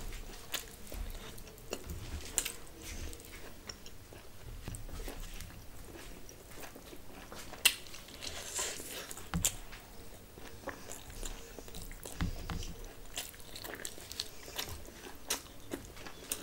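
Close-miked mouth sounds of a person eating rice and curry by hand: chewing and biting, with scattered sharp clicks throughout and a sharper one about three-quarters of the way through.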